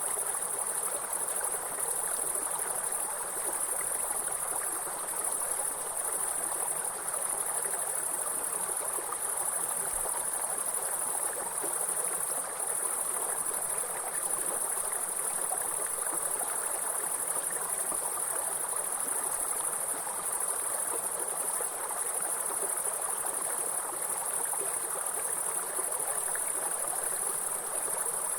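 A continuous high-pitched chorus of insects over the steady rushing of a stream.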